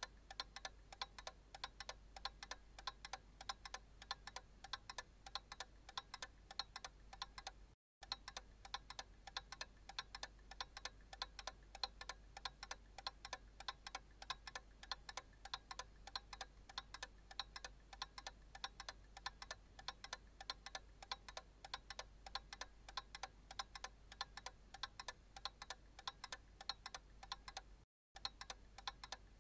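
Analog clock ticking steadily in an even rhythm, cutting out briefly twice (about eight seconds in and near the end), with a faint low hum underneath.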